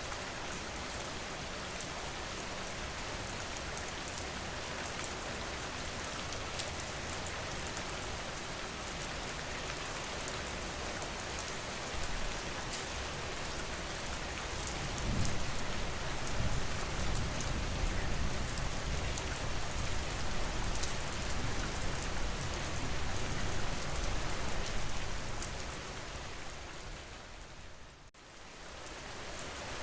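Steady rain falling and pattering on surfaces. A deeper low rumble swells in about halfway through and fades again. Near the end the sound briefly drops away and comes back.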